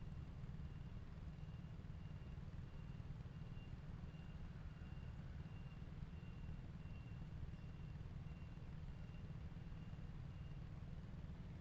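Low, steady road and engine rumble of a car while driving, with a quiet high electronic beep repeating about twice a second that stops near the end.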